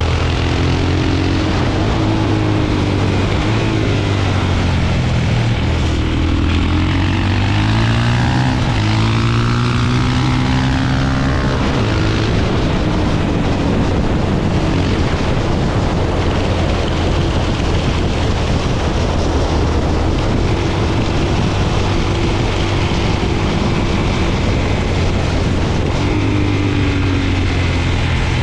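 Suzuki DR-Z400's single-cylinder four-stroke engine running under way, its pitch rising and falling with throttle and gear changes, then holding steady at a cruise, over a constant rushing noise.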